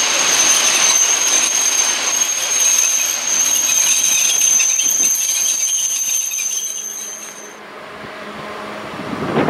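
Freight train of covered hopper wagons rolling past at close range, the wagons and wheels rumbling and rattling, with a steady high-pitched wheel squeal. Both stop abruptly about three-quarters of the way through, leaving quieter background noise.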